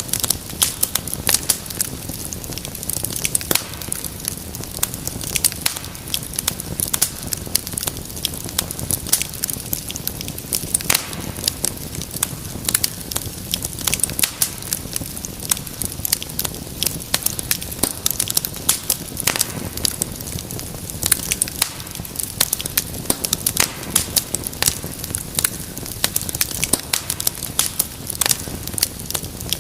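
Wood fire crackling, with frequent sharp pops and snaps over the low, steady rumble of the burning flames.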